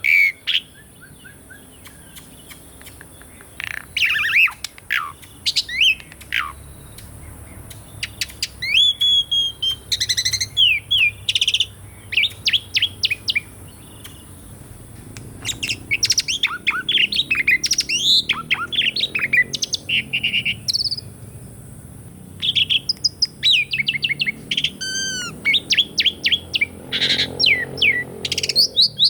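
Asian pied starling (jalak suren) singing in bouts: a varied run of whistles that sweep up and down, mixed with quick series of short harsh notes, with brief pauses between phrases.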